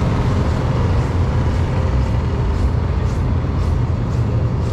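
Wind buffeting the GoPro's microphone as a loud, steady low rumble, with faint footsteps crunching in snow about twice a second.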